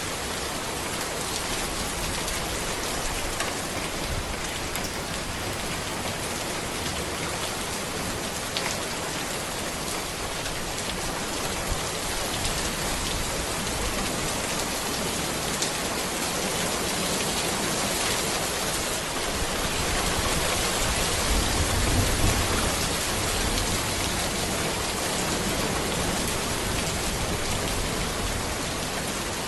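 Steady rain falling on a road, a dense even hiss with scattered drop ticks. A low rumble swells and fades about two-thirds of the way through.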